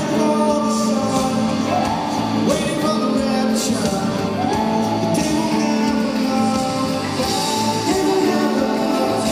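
Live rock band playing, with a sung lead vocal over a steady band accompaniment.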